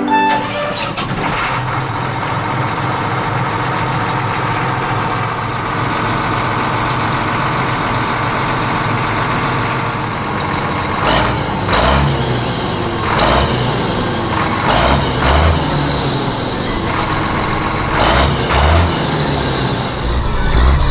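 Mini diesel engine running steadily, then surging in repeated short pulses through the second half.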